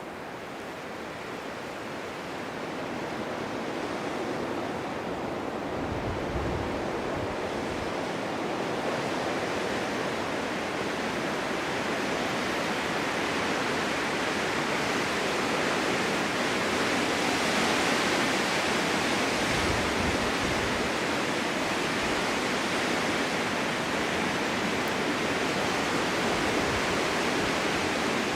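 Strong winter wind blowing steadily, a rushing noise that builds over the first several seconds into a stronger gust, with brief low rumbles now and then.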